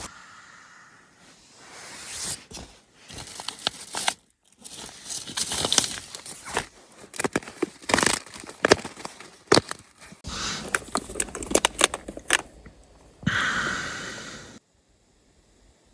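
Crinkly material being handled: irregular rustling and sharp crackles, which stop abruptly near the end.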